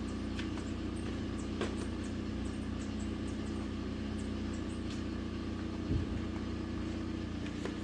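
Car engine idling steadily: an even, low hum with a few faint clicks.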